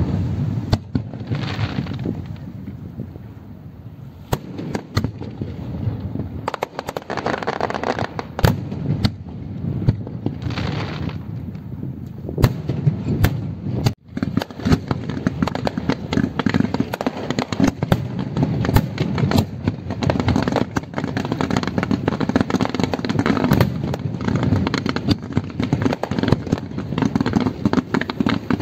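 A fireworks display: aerial shells bursting in a long run of sharp bangs, with patches of crackle and hiss between them. The bangs come thicker and faster in the second half, after a momentary drop-out about halfway.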